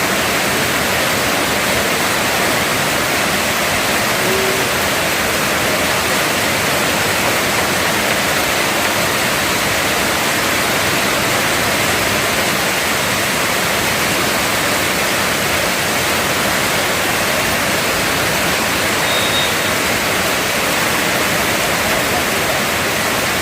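Heavy tropical downpour: a loud, steady hiss of rain with no let-up.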